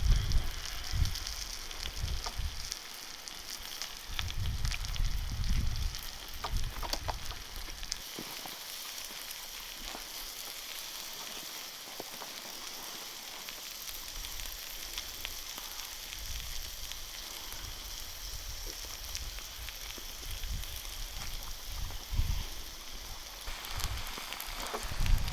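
Lamb frying in a steel saj over a wood fire: a steady sizzle with scattered small crackles.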